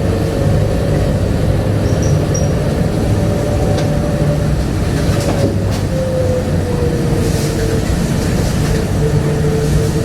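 Onboard running noise of a 1999 Bombardier APM100 rubber-tyred people-mover car in motion: a steady rumble with a thin motor whine that rises gently, then drops a little past the middle. A couple of sharp clicks come around the middle.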